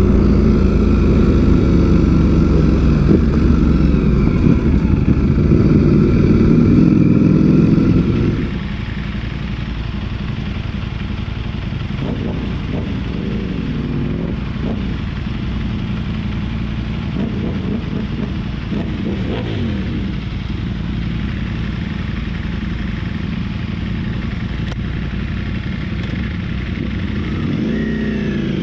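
Ducati V4 sport motorcycle engine running, loud for the first eight seconds or so, then dropping suddenly to a lower, steadier sound with a few brief rises and falls in pitch.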